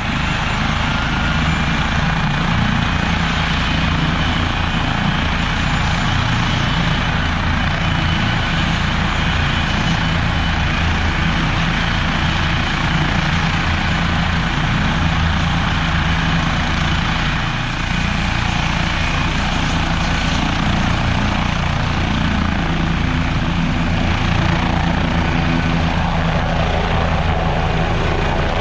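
Leonardo AW169 twin-turbine helicopter running loud and steady, turbine rush and rotor beat together, around its take-off.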